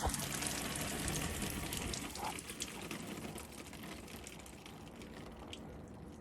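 Water rushing and splashing steadily down a cleared sewer line being flushed with a hose, slowly fading. The free flow is the sign that the grease clog is gone.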